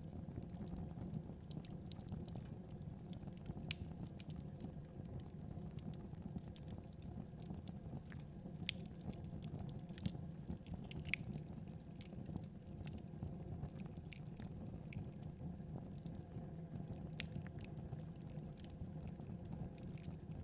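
Wood fire burning, a steady low rumble with irregular sharp crackles and pops scattered throughout.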